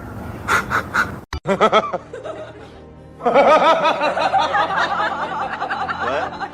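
Hearty laughter, starting about three seconds in and going on loudly in quick repeated peals. Before it come a few short knocks and a brief cut in the sound.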